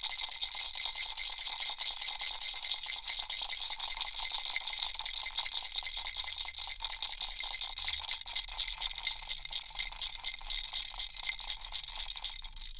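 Turtle-shaped plastic baby rattle shaken steadily, its beads making a fast, continuous high rattle that fades off at the very end.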